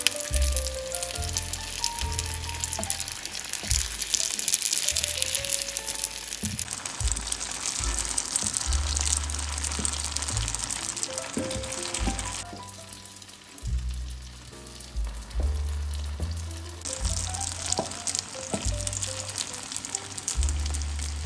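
Oil sizzling in a nonstick frying pan around rice-paper-wrapped vegetable and egg parcels as they fry, over background music. The sizzle drops out for a few seconds past the middle, then comes back.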